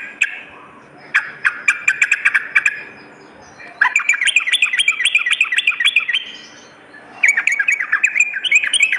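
Yellow-vented bulbul (trucukan) singing in loud bursts of rapid, bubbly repeated notes. There are three phrases of one to three seconds each, with short pauses between them.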